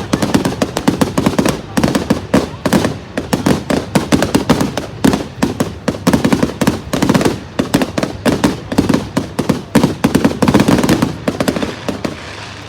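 Fireworks going off in a rapid, continuous run of bangs and crackles, many per second, thinning out near the end.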